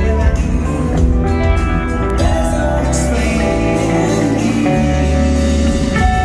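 Rock band playing live, loud and dense, with sustained guitar lines over bass and drums and no singing.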